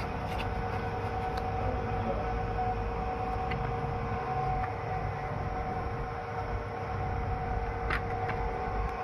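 Factory machinery running steadily: a constant low rumble with a steady two-tone hum and a few faint clicks.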